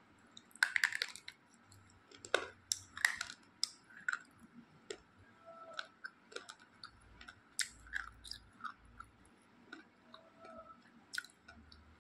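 A slate pencil being bitten and crunched between the teeth. The loudest part is a burst of crackling about a second in, followed by sharp crunches every half second or so that thin out into scattered crunches as it is chewed.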